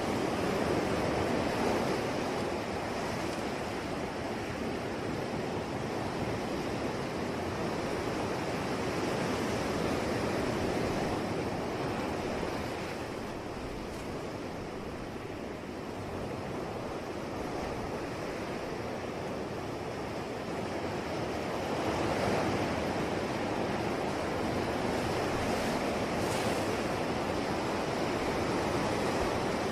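Ocean waves breaking and washing on a shore: a continuous rushing surf that slowly swells and ebbs, quieter in the middle and building up again a little past twenty seconds.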